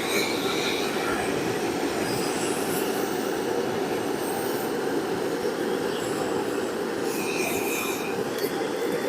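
Steady blowing rush of a handheld heating tool held on the aluminium wing, heating the badge bracket so the adhesive lets go.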